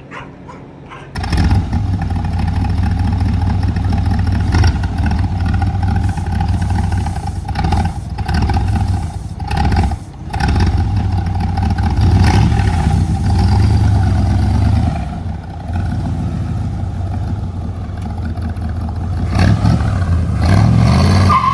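The 1972 Corvette's 350 V8 catches about a second in as the stuck clutch is popped, then runs loudly with the revs rising and falling, dipping briefly a couple of times.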